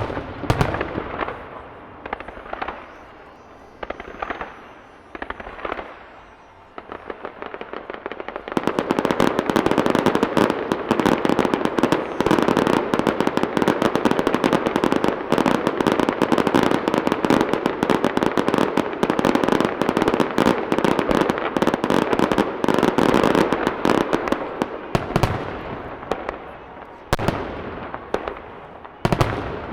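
Aerial fireworks show: separate shell bursts for the first eight seconds or so, then a dense, rapid barrage of bangs and crackling for about seventeen seconds, thinning back to a few single bursts near the end.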